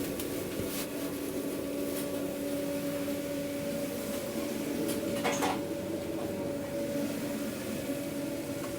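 Steady mechanical hum of food-truck kitchen equipment, with a couple of short clicks of handling about five seconds in.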